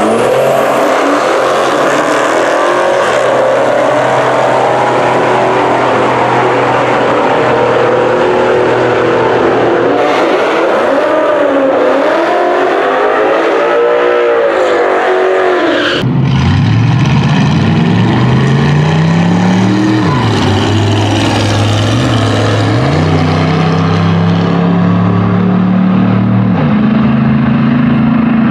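High-performance car engines at full throttle on a drag run, loud and dense. About 16 seconds in, the sound cuts to another engine whose pitch climbs and drops back several times as it revs and shifts.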